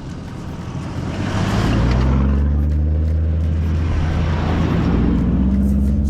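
Toyota Hilux engine driving along a sand track, its note building about a second in and then holding steady under load.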